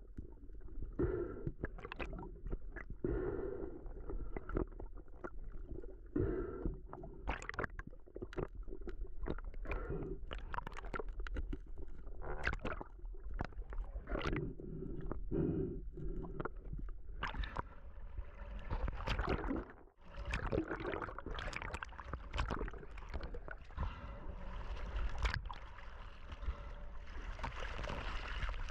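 Running water splashing and gurgling, with many irregular sharp knocks and a constant low rumble; a broader hiss builds up over the last ten seconds.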